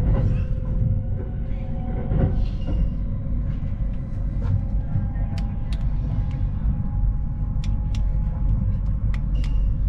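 Kintetsu Shimakaze limited express train running, a steady low rumble with a faint steady hum, heard from inside a passenger compartment. A few light clicks fall in the second half.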